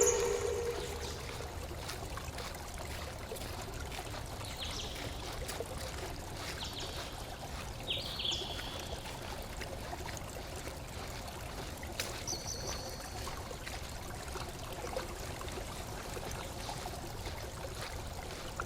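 Steady rush of flowing water, with a few short high bird chirps over it.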